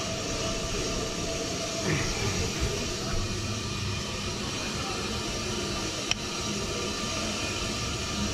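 Ammco 4000 brake lathe running steadily while it skims a brake rotor, a constant machine hum and hiss with a few steady tones. A single sharp click cuts in about six seconds in.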